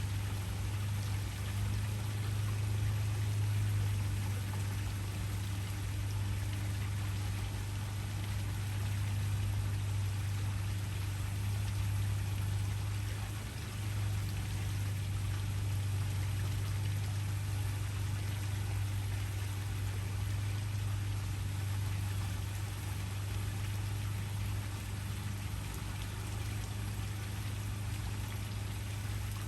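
Waterfall: a steady rush of falling water with a strong low rumble beneath the hiss.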